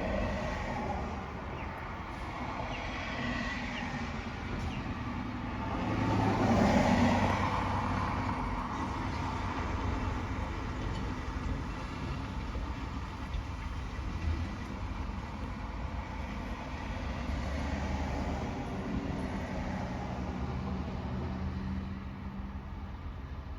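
Heavy truck engines running with traffic noise; one vehicle grows louder and fades away about six to eight seconds in.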